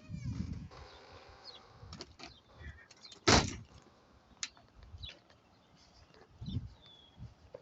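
Small birds giving a few faint, short high chirps, among low bumps and one loud, sharp knock-like burst about three seconds in.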